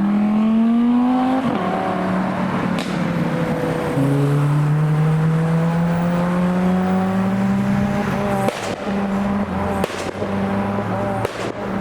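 A car engine accelerating away, its note climbing, dropping at a gear change about a second and a half in and again about four seconds in, then climbing gently and holding steadier.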